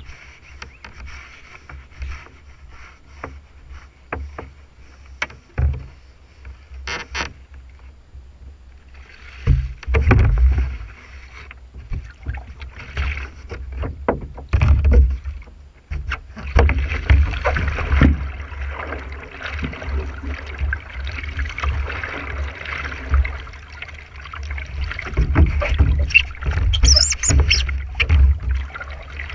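Whitewater canoe paddling: paddle strokes and water splashing, with wind rumbling on the camera microphone. About halfway through the water noise grows louder and continuous, with frequent splashes.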